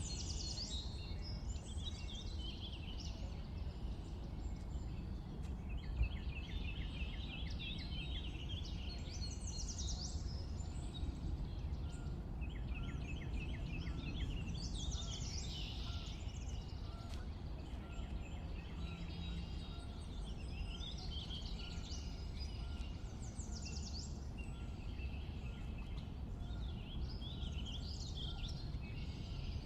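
Songbirds singing in short phrases every few seconds, some as rapid trills, over a steady low background rumble.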